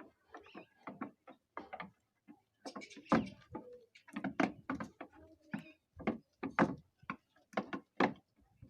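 Irregular knocks and bangs, about two a second, louder from about three seconds in.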